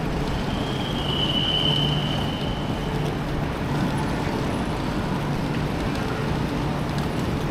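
Steady rushing ambience of a station platform beside a waiting high-speed train, with a constant low hum and a thin high-pitched tone lasting about two seconds near the start.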